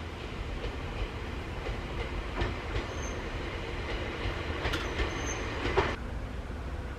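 ET127 series electric multiple unit running past: a low rumble with its wheels clacking irregularly over rail joints. A faint high wheel squeal comes twice, about three and five seconds in.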